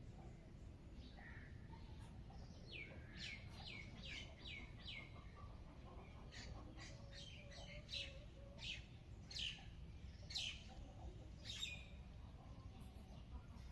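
Birds chirping in quick runs of short, down-slurred notes, over a faint, steady low background rumble.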